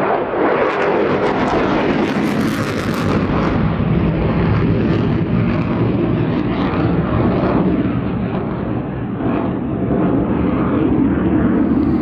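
F-22 Raptor's twin Pratt & Whitney F119 turbofans in afterburner as the jet climbs away: loud, steady jet noise with sharp crackling in the first few seconds.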